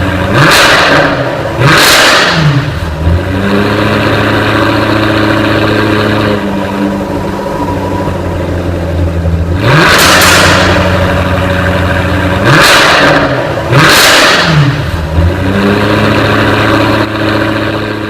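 A 2015 Jaguar F-Type R's supercharged 5.0-litre V8 being blipped several times. Each sharp rev drops back to a steady idle.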